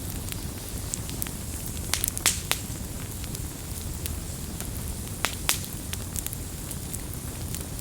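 Wood campfire burning and crackling: a steady low rumble of flame with scattered sharp pops and snaps, a few louder ones about two seconds in and again past the five-second mark.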